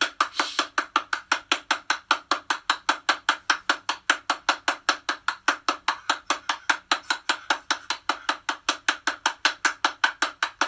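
Rapid, perfectly even clicking like a wood block, a little over five clicks a second, running as a steady beat.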